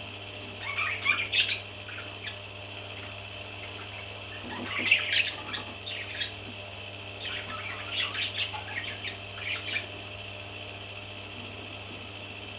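Baby parrots calling in three short bouts of squawks and chirps, with a steady electrical hum and hiss beneath; the calls stop a little before the end.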